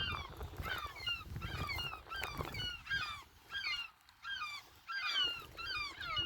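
Eurasian oystercatchers calling: a steady stream of short, shrill, downward-sliding piping calls, several a second, from more than one bird. Low wind rumble on the microphone sits under the first half.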